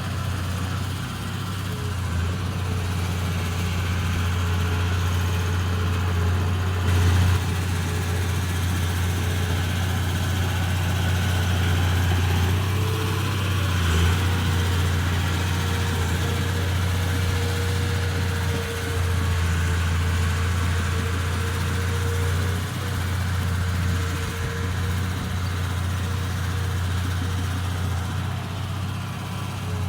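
Komatsu D31P bulldozer's diesel engine running steadily at an even speed.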